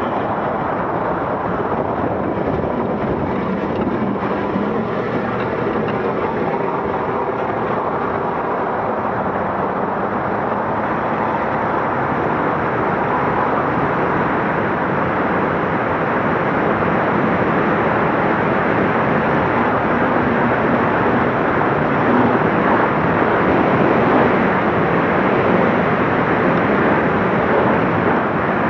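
Scania Dakar rally truck's diesel engine running under load as the truck drives at speed, over a steady wash of road and wind noise, getting slightly louder in the second half.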